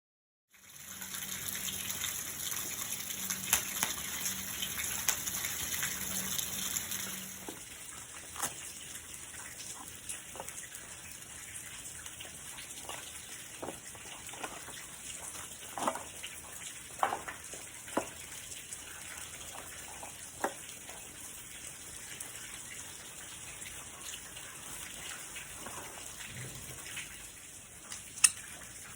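Steady rain falling, louder and fuller for the first seven seconds or so, then a softer patter with scattered sharp ticks and pops.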